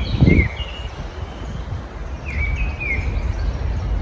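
Several garden songbirds chirping in short, sliding whistled notes, a cluster near the start and another a little past the middle, over a steady low outdoor rumble. A brief low thump just after the start is the loudest moment.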